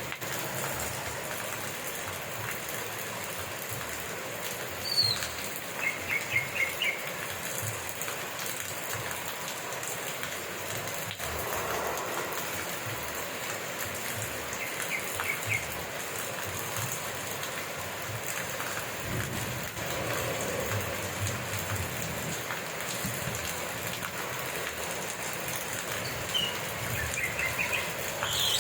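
Steady rain falling. Brief clusters of short high chirps come through it a few times.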